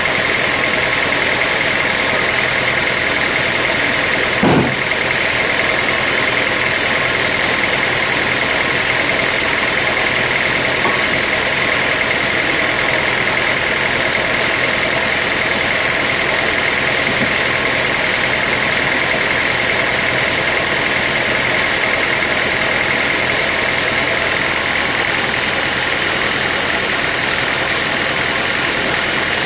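Sawmill machinery running steadily, a continuous mechanical noise with a steady high whine. One short knock comes about four and a half seconds in.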